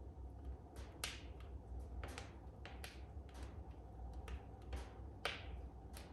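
Wood fire in a fireplace crackling, with irregular sharp pops about once or twice a second, the loudest about five seconds in, over a low steady hum.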